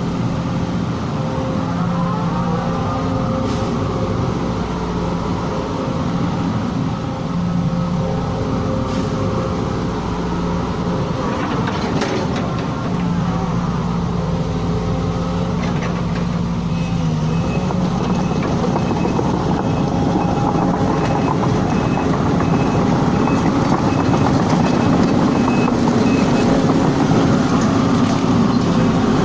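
Sumitomo hydraulic excavator's diesel engine running under load while its hydraulics are worked through test movements, with a gliding hydraulic whine and the engine note shifting and growing louder just past the halfway point. A short high beep repeats about once a second through the second half.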